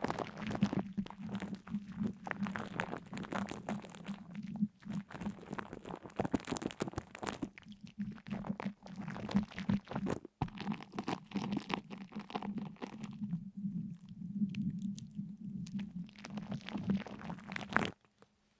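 Dense crackling and crunching made of many small clicks over a low steady hum; it cuts off suddenly near the end.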